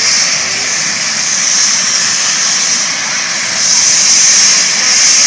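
Aircraft engine noise: a steady, loud rushing that swells about three and a half seconds in.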